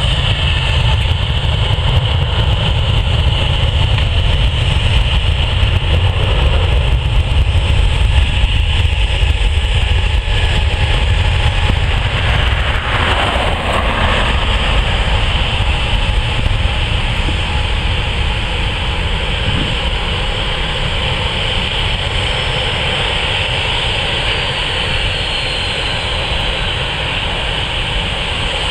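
Jet aircraft engines running steadily, with a heavy low rumble underneath. A faint high whine falls slightly in pitch near the end.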